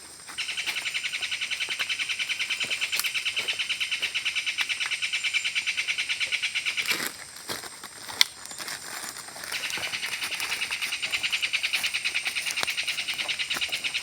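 A loud, fast-pulsing call from a forest creature, about ten pulses a second, held for several seconds, breaking off, then starting again. A single sharp click falls in the gap between the two stretches.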